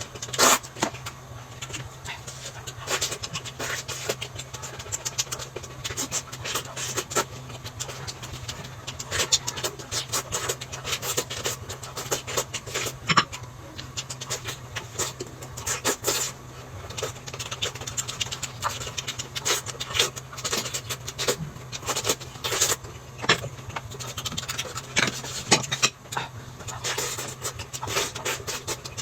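Close-miked eating sounds: chewing and mouth smacking, with many small irregular clicks, over a steady low hum.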